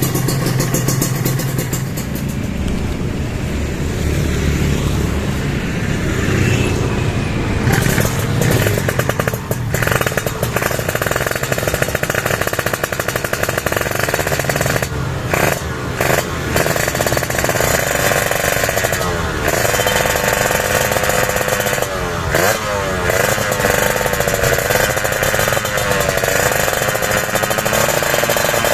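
Two-stroke 150 cc Kawasaki Ninja RR single-cylinder engine running through an aluminium DTX51 silencer and big-volume expansion chamber. Its pitch rises and falls again and again as the throttle is worked, with short breaks in the sound in between.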